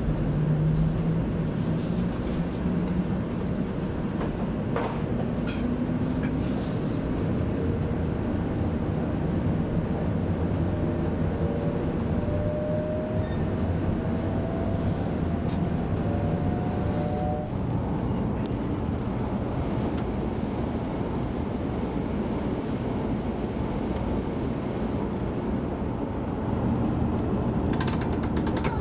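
Cabin noise of a 500 series Shinkansen running: a steady rumble, with a whine that rises in pitch near the start and again about midway, and a few light clicks.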